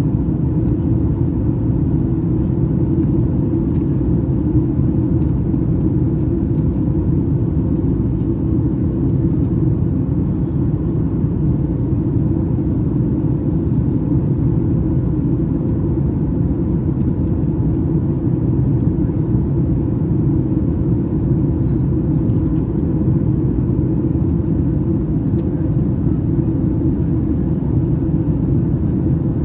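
Steady cabin noise of a Boeing 737 MAX 8 airliner, its engines and airflow making an even low rumble with a faint steady hum on top.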